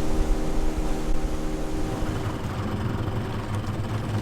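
Motor vehicle engine running steadily in transit. Its tone changes about halfway through, as a low hum takes over from the higher stacked tones.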